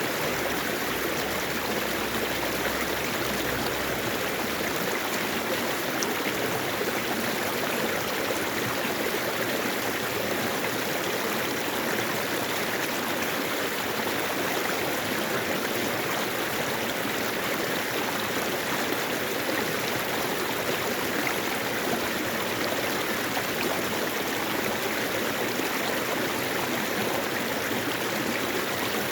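Mountain valley stream, water rushing and burbling over rocks in a steady flow.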